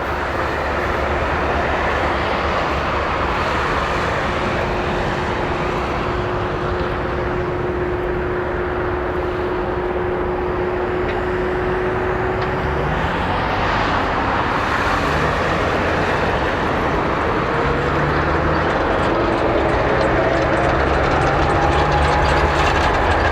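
Jet airliner on its takeoff roll, engines at takeoff thrust: a steady, heavy jet noise that grows a little louder, with a whine rising in pitch near the end.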